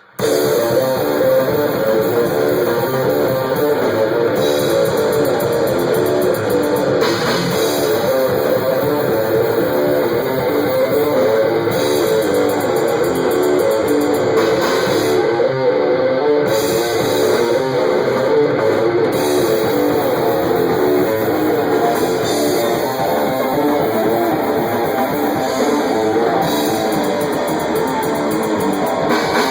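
A rock band playing loudly in rehearsal, with electric guitar, bass and drums, heard through a phone camera's own microphone close to the drum kit. The music starts abruptly at full volume.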